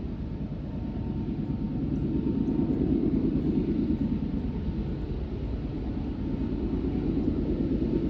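Deep, steady rumble of an approaching diesel freight train, swelling about three seconds in and again near the end.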